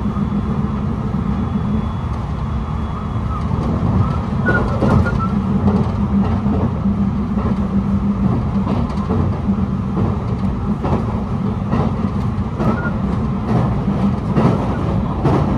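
Running sound heard from inside a JR West 223 series 6000 electric multiple unit at speed: a steady low rumble of wheels on rail, with short clacks from the track coming more often after the first few seconds.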